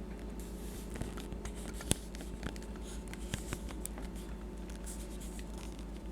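Small clicks, taps and scrapes of a die-cast toy tractor and disc harrow being handled, over a steady low hum.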